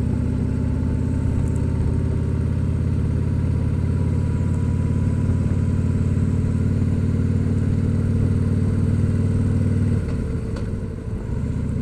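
Motorcycle engine running steadily while riding, heard from the rider's seat. About ten seconds in, the engine note dips and changes briefly, as when the throttle eases off, then picks up again.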